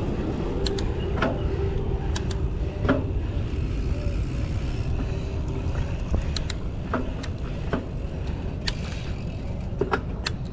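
Wind rushing over the microphone on a moving mountain bike, with scattered clicks and rattles from the bike and tyres on the dirt trail.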